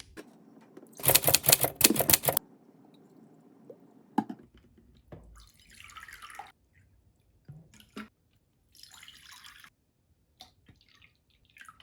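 A loud, rapid clatter lasting about a second and a half, then a few knocks and two short pours of water, as water bowls are set out and filled.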